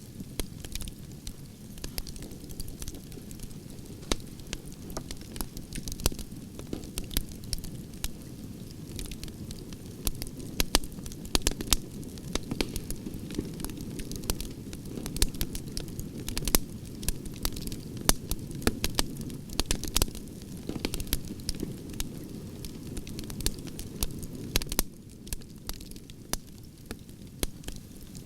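Wood campfire burning: frequent sharp crackles and pops from the logs over a steady low rush of flames.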